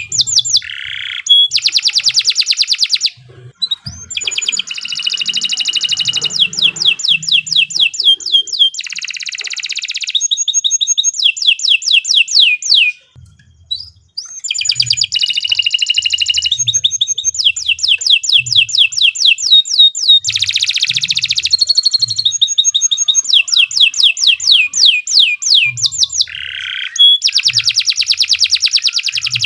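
Domestic canary singing a long song of fast trills and rolls: rapid runs of repeated sweeping notes, changing from one phrase to the next. There is a short break a few seconds in and a brief silence near the middle.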